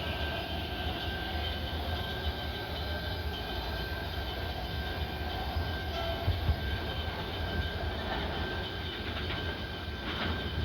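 MARTA rapid-transit train running, a steady low rumble with a faint steady high whine and a few clicks near the end.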